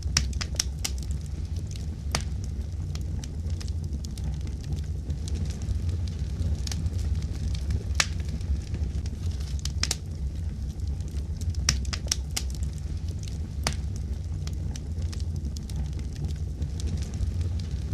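Fireplace wood fire crackling: irregular sharp pops, several close together in places, over a steady low rumble.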